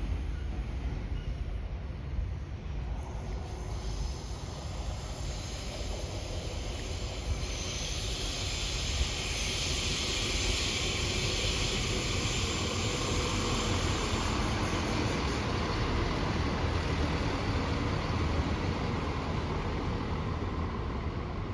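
Train running through on the railway line: a steady low rumble, with wheel and rail hiss that grows louder about eight seconds in.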